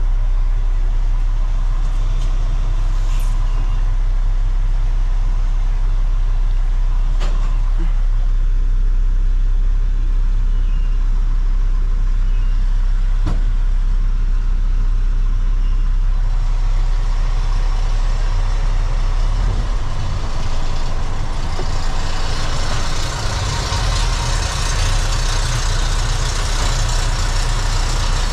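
Semi-truck's diesel engine running with a steady low rumble, heard from inside the cab. Two sharp clicks come about a third and halfway through, and a steady hiss builds up over the last several seconds.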